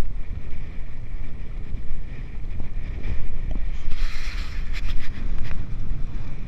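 Wind buffeting the microphone on a sailboat: a loud, uneven low rumble. About four seconds in, a brief hissing burst with a few sharp clicks.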